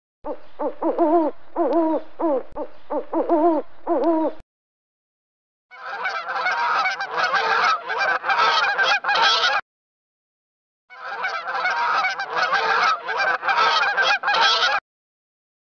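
About ten short pitched calls in quick succession, each rising and falling, then a white stork clattering its bill: two bouts of rapid dry rattling, each about four seconds long.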